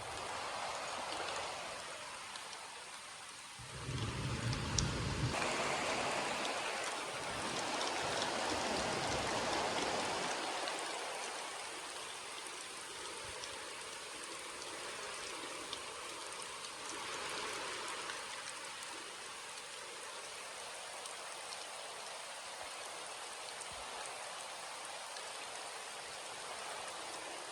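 Steady rain falling, heavier for a few seconds about four seconds in, with a brief low rumble at that point, then settling back to an even patter.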